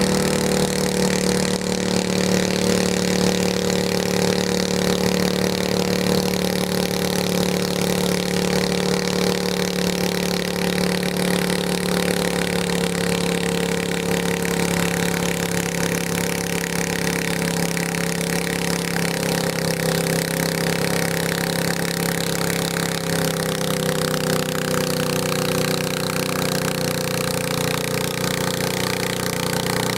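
Garden tractor engine running steadily at high speed for the whole stretch, its pitch sagging slightly over the last few seconds.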